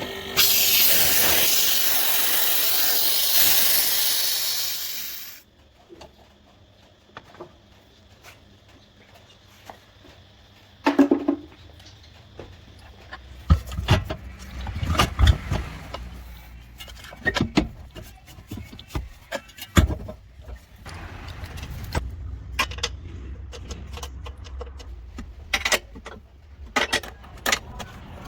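A loud steady hiss that cuts off suddenly after about five seconds, followed by scattered metallic clicks and knocks of parts and tools being handled on the car, with a low rumble under the second half.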